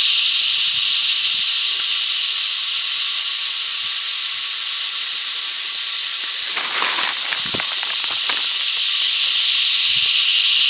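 Loud, steady chorus of cicadas: a continuous high-pitched shrill drone. A few brief rustles break in about two-thirds of the way through.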